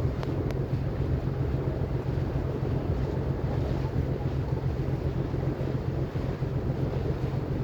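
Ferry boat's engine running with a steady low hum, under the rush of wind on the microphone and water.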